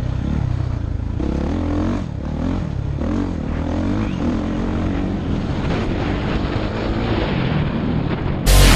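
Dirt bike engine running and changing pitch as the rider throttles on and off around the track, with wind noise on a helmet-mounted camera. Loud music cuts in suddenly near the end.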